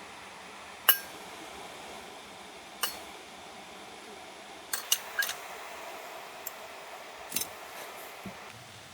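A series of sharp clicks and clinks from small hard objects being handled, several ringing briefly like metal, the loudest about a second in and a quick cluster around the middle, over a steady low hiss.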